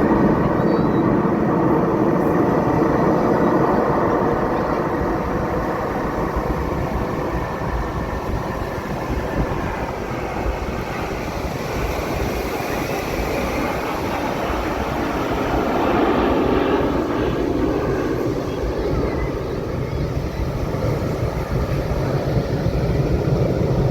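Aircraft engine noise from a plane flying at an airshow: a loud, rough rumble that swells, eases off through the middle, and builds again later.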